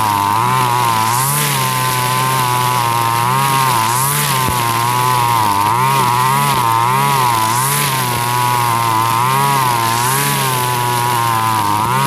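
Two-stroke engine of a Husqvarna 542RBS backpack brush cutter running at high speed, its pitch dipping and rising about once a second as the spinning nylon trimmer line sweeps through grass.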